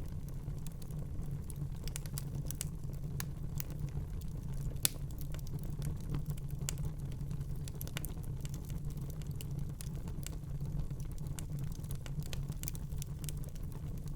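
Fireplace fire crackling: irregular small pops and snaps over a steady low rumble, with one sharper pop about five seconds in.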